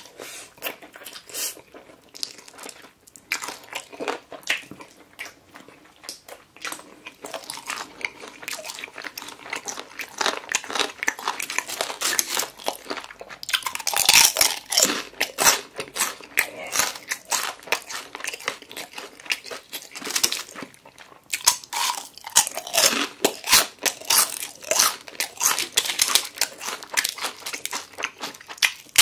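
A person biting into and chewing crispy fried chicken, with many sharp crunches of the coating coming thick and fast. It is loudest around halfway through and over the last several seconds.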